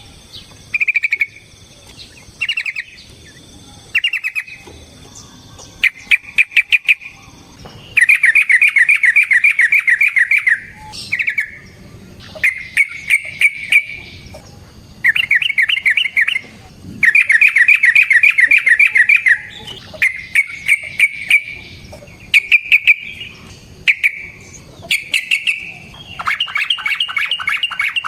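Yellow-vented bulbul (trucukan) singing loud, bubbling phrases, short ones broken by pauses, with two long rapid-fire trills (ropel) of about two and a half seconds each, the first about eight seconds in and the second about seventeen seconds in.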